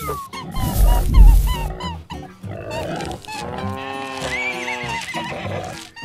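Cartoon soundtrack: background music with a loud deep whoosh about a second in, then a run of farm-animal calls with rising and falling pitch over the middle seconds.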